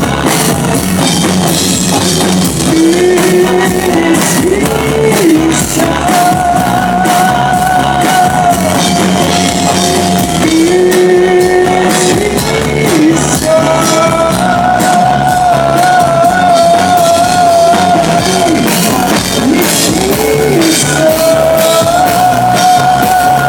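Live pop-rock band music from a Soviet-style vocal-instrumental ensemble: drums and bass under a lead melody of long held notes that waver, with no words sung.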